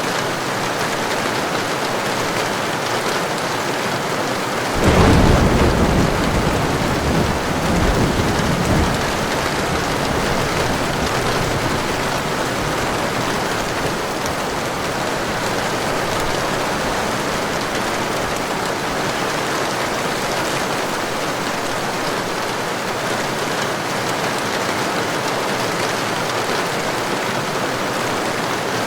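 Steady heavy rain. About five seconds in, a sudden crack of thunder breaks in and rolls on, swelling again a few seconds later, then dies away under the rain.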